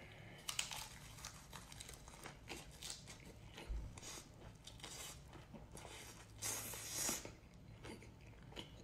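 A person biting into and chewing crisp, crunchy food close up: a series of short, irregular crackles, with a longer crackling stretch about six and a half seconds in.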